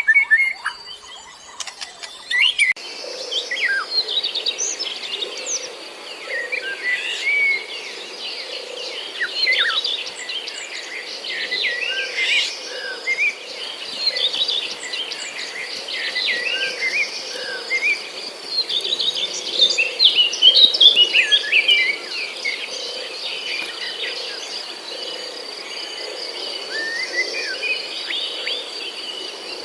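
Several birds chirping and singing over a steady high insect trill, with a lower sound pulsing evenly underneath. The mix changes about two and a half seconds in, after which the insect trill sets in.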